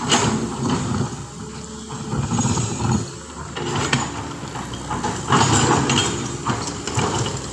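Heavy diesel vehicle engine running, swelling louder a few times.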